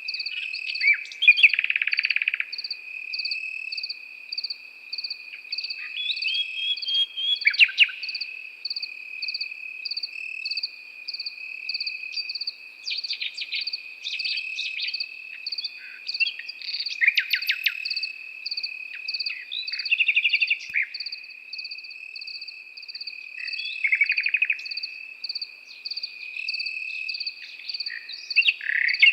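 Nightingale singing in short, varied phrases, several with rapid rattling trills, over crickets: one trilling without a break, another chirping in an even pulse.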